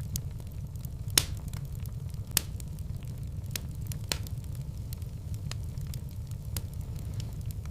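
Wood fire in a fireplace crackling: scattered sharp pops over a steady low rumble, the loudest pops about a second in and again near two and a half seconds.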